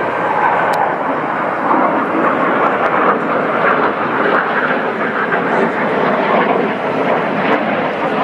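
Loud, steady jet noise from Northrop F-5E Tiger II fighters' twin J85 turbojet engines.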